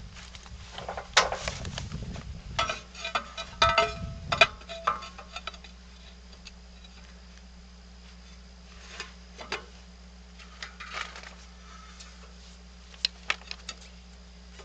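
Steel plate and tools clanking and clattering against a steel frame for a few seconds while a gusset is worked into place, then a few scattered light metal clicks over a low steady hum.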